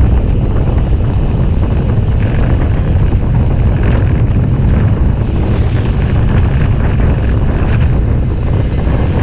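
Steady low wind rumble buffeting the microphone of an action camera carried on a moving bicycle.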